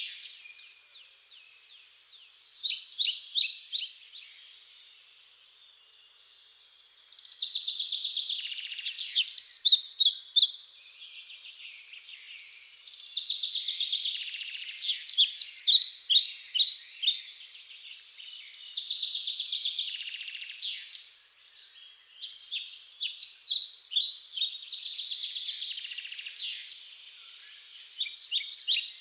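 Forest songbirds singing, with a song phrase that repeats every five or six seconds: a fast trill followed by a quick run of separate, clear notes.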